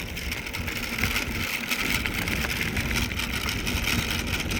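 Mountain bike rolling along an unpaved rail trail: a steady rumble and hiss of the tyres on the dirt surface, with wind on the handheld phone's microphone.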